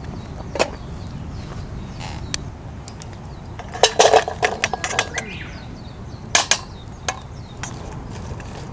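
Camp cookware and utensils being handled: sharp clinks and knocks, with a quick cluster of them about four seconds in and a few single ones before and after.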